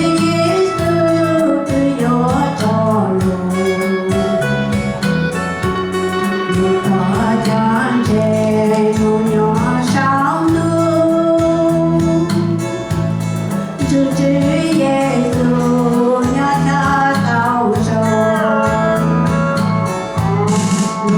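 A sung religious song: a voice singing melodic lines over continuous instrumental backing.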